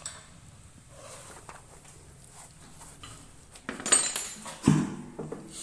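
Metal parts and hand tools clinking and knocking, with a cluster of louder ringing metal knocks about four to five seconds in.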